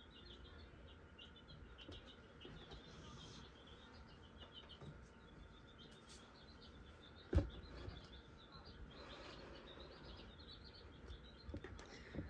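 Faint, high chirping repeating rapidly throughout. A single sharp knock comes about seven seconds in.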